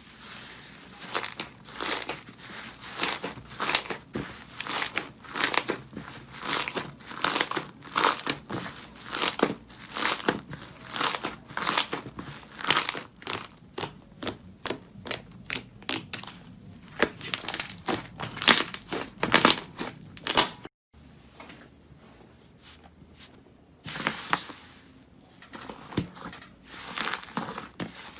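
Slime being squeezed and pressed, giving a string of sharp crackling pops and clicks, about one or two a second. They stop abruptly about two-thirds of the way through and start again softer a few seconds later.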